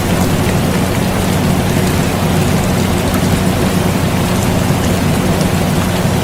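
Steady rain hiss with faint scattered droplet ticks, over the even low hum of an air conditioner.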